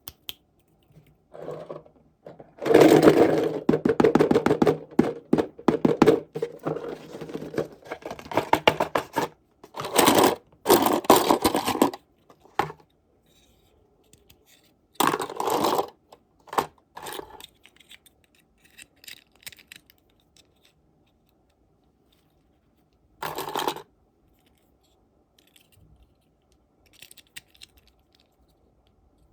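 Plastic packaging crinkling and tearing as it is handled and opened by hand, in several dense crackling bursts with pauses between, the longest about six seconds.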